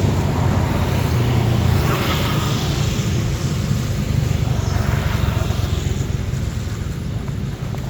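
An engine running steadily with a low hum, a little stronger for the first two seconds.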